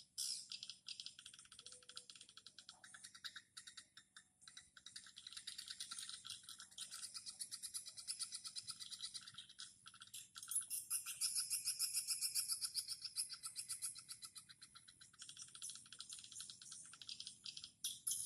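Swiftlets twittering around a swiftlet house: fast trains of high, rapid clicking chirps that grow louder about ten seconds in.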